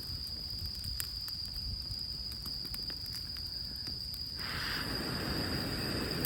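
Campfire of rain-damp wood crackling with scattered sharp pops, over a steady high whine. About four and a half seconds in, a rush of air noise lasting about two seconds.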